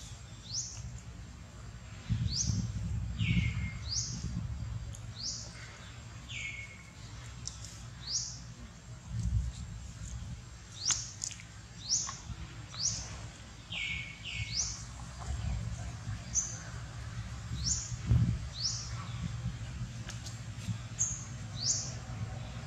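A bird calling over and over: short rising chirps about once a second, mixed with lower, falling notes, over a low rumbling noise that swells now and then.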